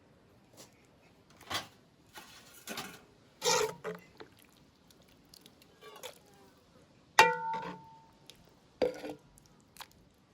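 Kitchenware clinking and scraping: a handful of sharp knocks and scrapes, with the loudest strike about seven seconds in ringing on briefly like a struck pot or dish.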